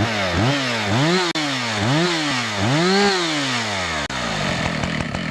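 Husqvarna 575 XPG professional two-stroke chainsaw being revved: the throttle is blipped about five times, the pitch rising and falling each time with the highest rev about three seconds in, then it drops back to a steady idle.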